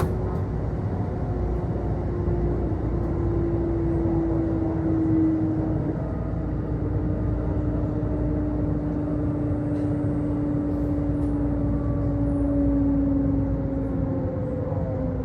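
Inside a Kintetsu electric commuter train as it slows into a station: the traction motors' whine glides slowly lower over a steady rumble of wheels on rail.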